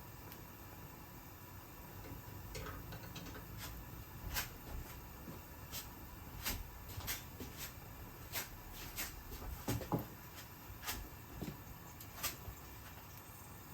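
Kitchen handling sounds: scattered light clicks and knocks of items being picked up and set down, a few louder knocks about ten seconds in, over a low steady hum.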